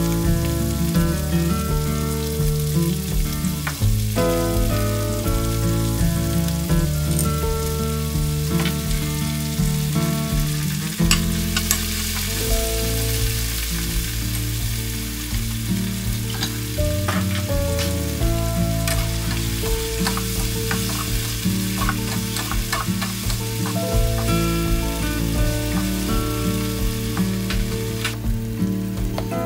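Sliced vegetables sizzling in hot oil in a wok as they are stir-fried, a steady frying hiss with scattered clicks from the stirring. Background music with held notes plays underneath.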